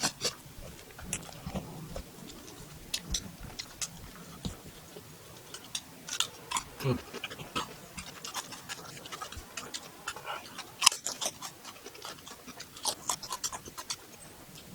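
Close-up chewing of spicy beef fried rice, a run of short irregular mouth clicks, with one sharper click about eleven seconds in.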